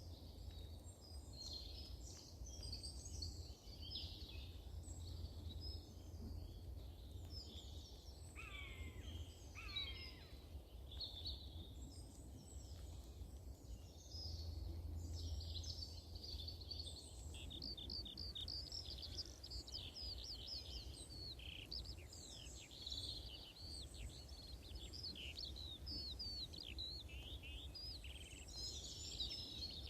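Several small birds singing and calling together, a busy mix of high chirps and trills that grows denser in the second half, with a couple of falling calls about nine seconds in. A low steady rumble lies underneath.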